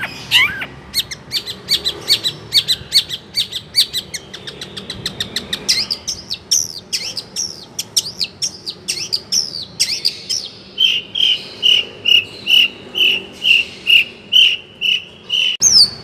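Long-tailed shrike (cendet) singing a varied song packed with borrowed phrases ('isian'): fast chirps and sweeping notes, changing near the end to a run of evenly repeated notes, about three a second.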